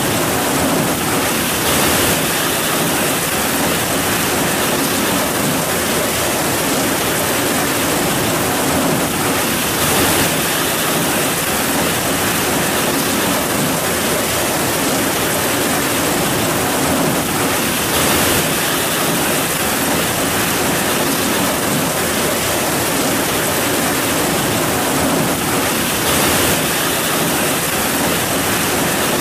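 Heavy rain falling steadily in a dense downpour, with a slight swell about every eight seconds.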